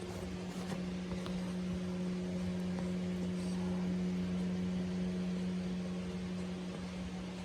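Steady low-pitched machine hum from a household appliance, swelling a little in the middle, with a few faint clicks over it.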